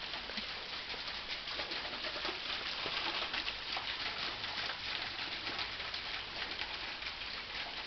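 Waterfall at low flow: a steady rush of falling and splashing water.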